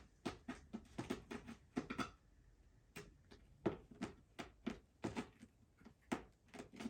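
A string of faint, irregular light taps and clicks, about twenty of them, unevenly spaced.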